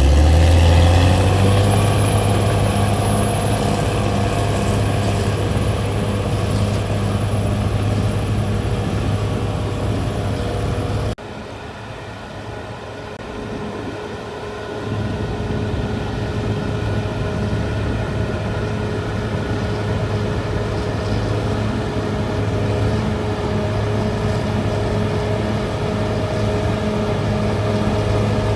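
Diesel engine of a CAT D6R XL crawler bulldozer running steadily under load, its revs rising in the first second. About 11 seconds in the sound cuts abruptly to a quieter level, then the engine builds back up a few seconds later and runs on steadily.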